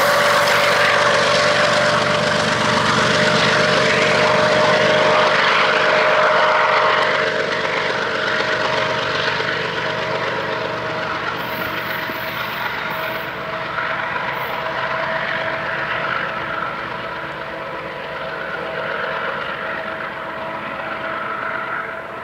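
GE diesel locomotive pulling a freight train: a steady engine drone with a whine that rises slowly in pitch, over the rumble of the train. Loudest in the first seven seconds or so, then a little quieter.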